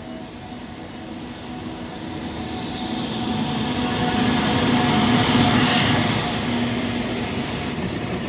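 JR Freight EF210-901 electric locomotive hauling a container freight train past, growing louder as it approaches to a peak about five seconds in, then the wagons rolling on by, with a few steady tones running through.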